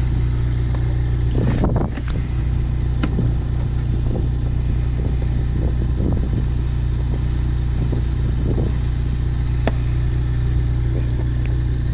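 Car engine running steadily with a low, even drone and no revving.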